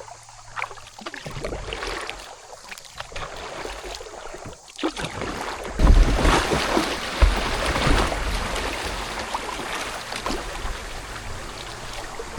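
Kayak paddling: paddle strokes with water dripping and splashing. It gets louder from about six seconds in, with a low rumble of wind on the microphone.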